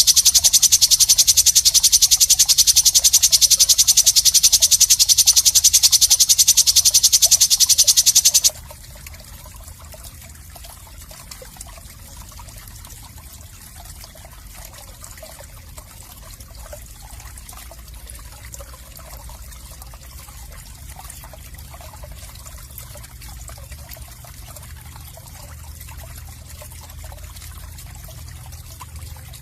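A loud, very fast, even rasping trill for about the first eight seconds stops abruptly, leaving faint frog croaking over a low hum.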